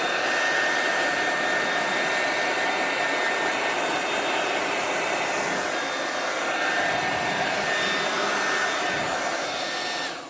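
Handheld hair dryer running steadily on high, blowing air across wet acrylic paint: an even rush of air with a faint high whine, switched off at the very end.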